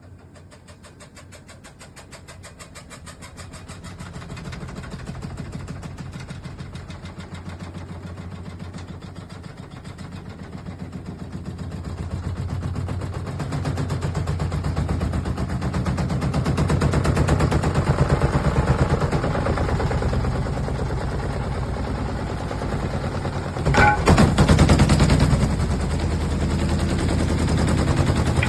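Siemens iQ700 front-loading washing machine running, with its drum turning and laundry tumbling inside: a fast, even mechanical rhythm over a low hum, growing steadily louder. There is a brief sharper clatter about 24 seconds in.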